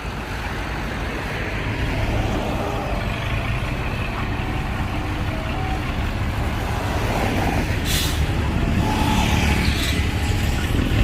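Heavy diesel engines of earthmoving machinery running steadily under load, growing slightly louder toward the end. A short, sharp hiss about eight seconds in.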